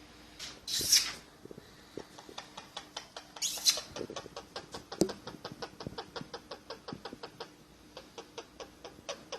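Pakistani ringneck parrot making a rapid series of small clicks, about five a second, with two short hissy bursts in the first few seconds.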